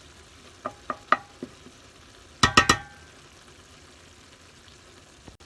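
Utensil clinking and scraping against a pan of frying paella rice and seafood as it is stirred: a few light clicks in the first second and a half, then a louder rattle of clinks about two and a half seconds in, over a faint steady sizzle.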